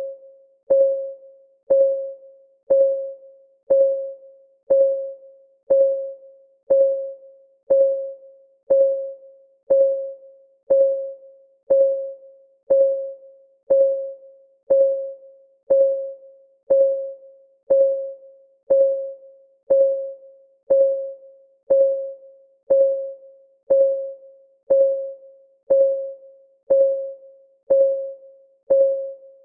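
Clock-ticking sound effect of a countdown timer: one short pitched tick about every second, each ringing briefly and fading, steady and even.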